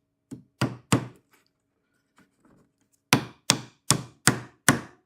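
Hammer tapping a small nail into a wooden beehive frame: three light taps, a pause of about two seconds, then a steady run of sharper strikes, about two or three a second, driving it in.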